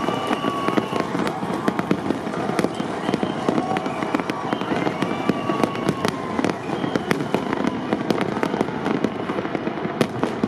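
Aerial fireworks display: a dense, unbroken crackle of bursts and pops in rapid succession.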